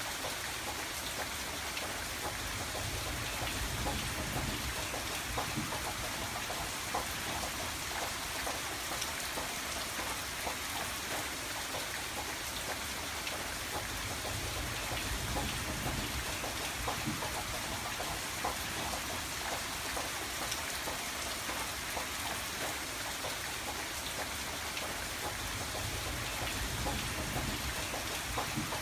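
Steady rain pattering on a window pane, with many small drop ticks over a constant hiss and a low rumble that swells and fades every several seconds.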